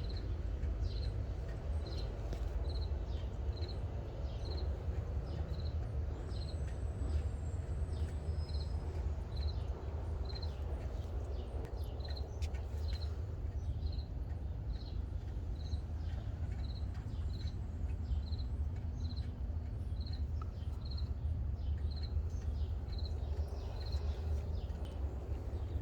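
A cricket chirping in the garden: short, high, single-pitched chirps about once a second that stop near the end. Under it runs a steady low rumble.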